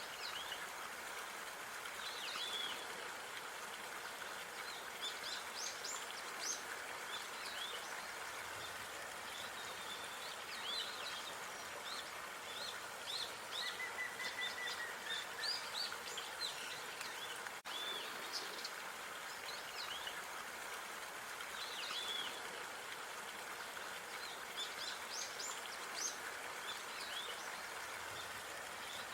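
Park ambience: small birds chirping and singing in short, scattered calls over a steady hiss of background noise, with one longer whistled note around the middle and a brief dropout just past halfway.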